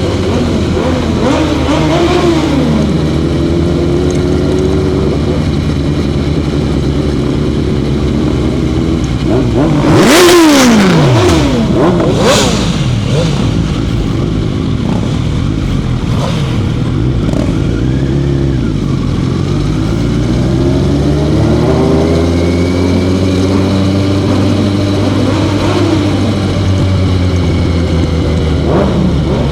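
Motorcycle engine running and revving, its pitch rising and falling through the gears. About ten seconds in, another vehicle passes close by, loud, with a sharp drop in pitch as it goes past.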